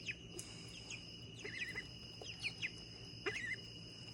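Penned birds chirping in short, falling calls, with a warbling trill about one and a half seconds in and again about three and a quarter seconds in. A steady high-pitched tone runs underneath.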